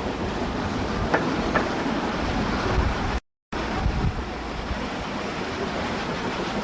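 Steady rushing noise of a moving steam train with wind buffeting the microphone, and a couple of faint clicks. It cuts out completely for a split second about three seconds in, then resumes.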